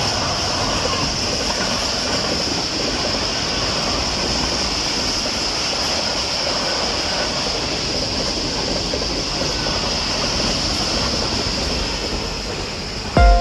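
Train running on the rails: a steady rushing rumble with a high hiss on top.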